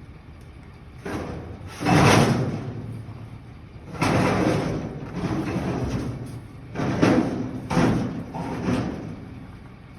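Heavy door of a 1960 Cadillac Coupe de Ville being worked open and shut, giving a series of thuds and slams, the loudest about two seconds in.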